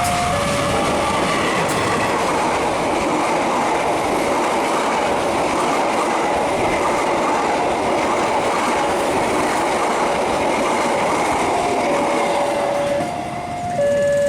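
A train running through the station with steady wheel and rail clatter, dying away near the end. Under it, an electronic two-tone alarm alternates between two pitches, growing clearer as the train fades.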